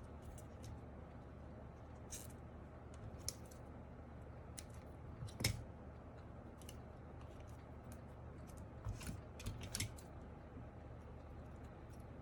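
Scattered light clicks and snips from hand work on keyboard parts, with one sharper click about five seconds in and a small cluster of clicks later on.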